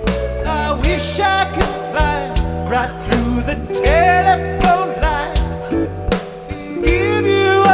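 Rock band playing live: a slow song with a lead singer's melody over bass, guitar and drum hits.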